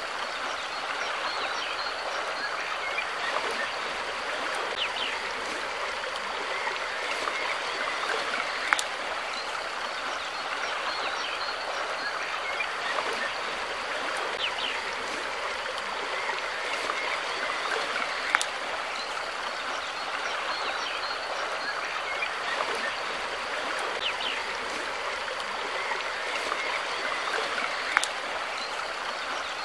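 Steady rushing of a flowing river stream, with three sharp clicks spread across it.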